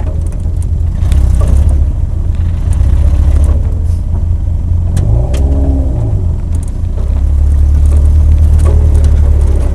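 Open-top kit sports car's engine running at low speed, heard close from on board as a loud, steady low drone. About five seconds in the revs drop and pick up again.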